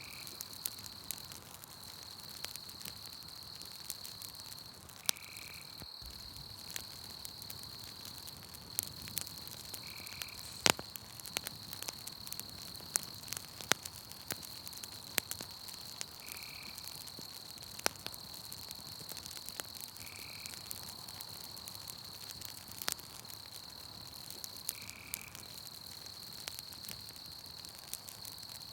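Campfire crackling with scattered sharp pops, over a steady high-pitched insect trill that breaks off briefly now and then. A short call repeats about every four to five seconds.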